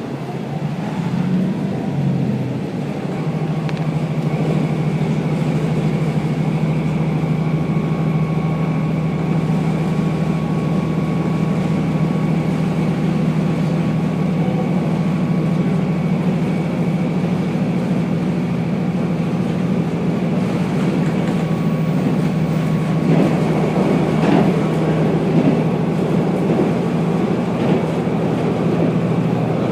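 Diesel railcar running along the line, heard from on board: a steady engine hum over wheel and track rumble. The engine note steps up and grows louder in the first few seconds, then holds steady, with a few brief clicks from the track about three quarters of the way through.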